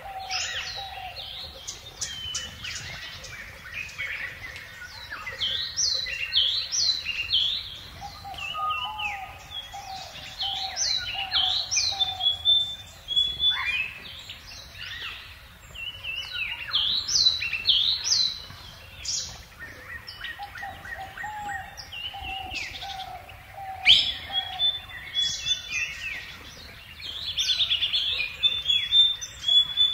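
A chorus of several birds chirping and calling at once: many short, quick chirps and whistles rising and falling in pitch, overlapping without pause.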